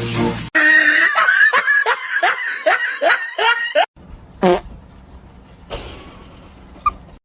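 A person laughing in a quick run of falling "ha" sounds, which cuts off suddenly, followed by one more short laugh-like burst.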